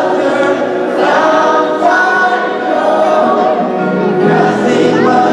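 A choir singing in a gospel style, several voices holding long notes together.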